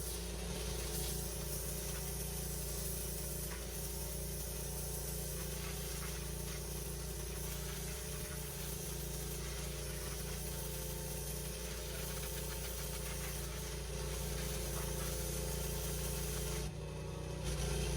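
Petrol pressure washer engine running steadily under the hiss of its high-pressure water jet blasting dirt and old pointing out of patio joints. Near the end the sound dips for a moment, then comes back louder.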